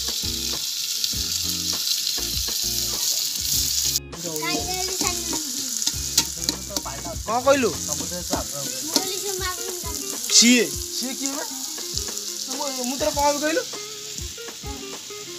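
Chicken skin and chopped onion frying in an aluminium pot over a wood fire: a steady sizzle, broken off sharply about four seconds in, then sizzling with the metal ladle stirring and scraping against the pot in irregular squeaks.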